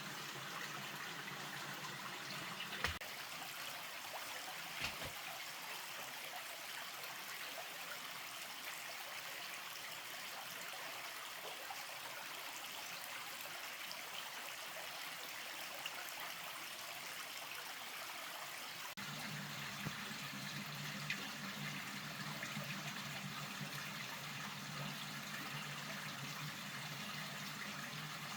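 Steady rain falling and trickling, with a couple of sharp knocks near the start and a low steady hum joining about two-thirds of the way through.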